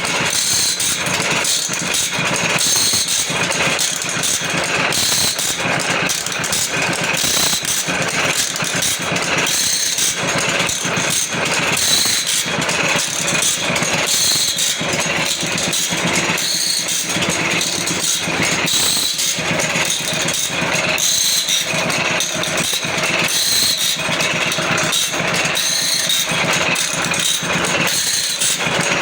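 Automatic band saw blade sharpening machine running: a steady motor hum under a rapid, even mechanical clatter as the machine grinds the teeth and advances the blade.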